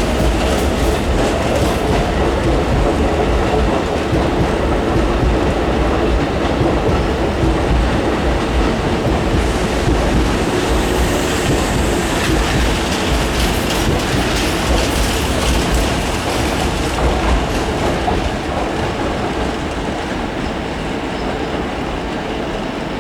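Hankyu 7000 series electric train running out of the station, wheels clattering over the rail joints with some wheel squeal; the sound is steady and loud, then eases somewhat over the last few seconds.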